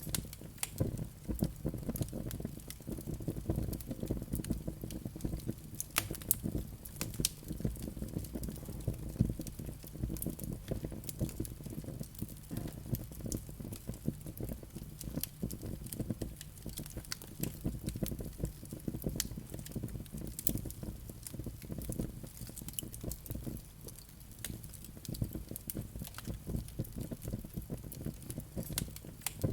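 Wood fire burning in a fireplace, crackling and popping with irregular sharp snaps over a steady low rumble of flames.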